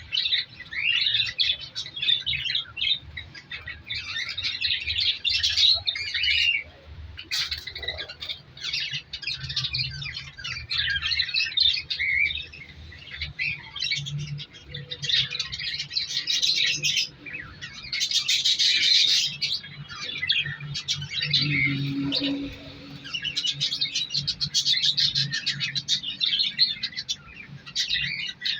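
Budgerigars chirping and chattering in repeated bursts with short pauses, the loudest burst a little past halfway.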